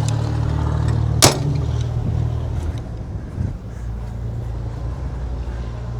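An engine running steadily at idle, with one sharp click a little over a second in; the engine hum drops lower about halfway through.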